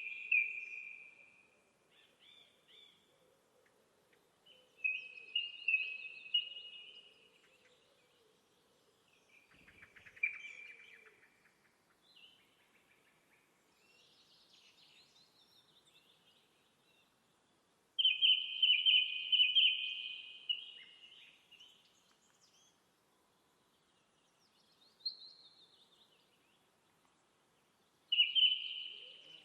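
Small songbirds singing outdoors: short bursts of rapid, high trilling phrases every few seconds with quiet gaps between, the longest and loudest phrase a little past the middle.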